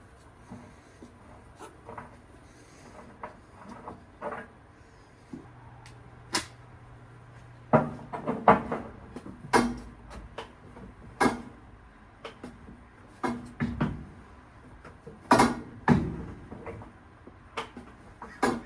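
A string of irregular knocks and clunks, sparse at first and then louder and more frequent from about eight seconds in.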